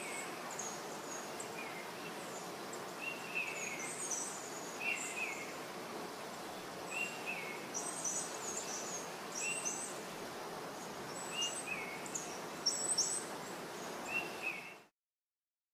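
Small birds chirping over and over in short calls against a steady background hiss. The sound cuts off abruptly about a second before the end.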